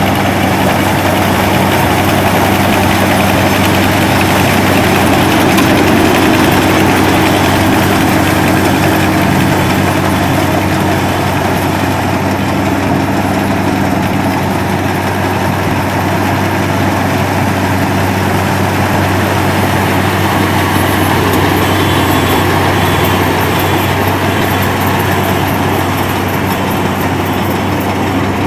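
Rice combine harvester running steadily, a loud continuous engine hum with dense mechanical noise over it.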